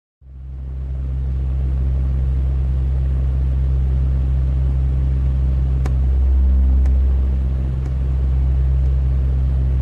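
A loud, steady low drone that cuts in suddenly out of dead silence and holds, swelling slightly partway through, with a few faint clicks over it.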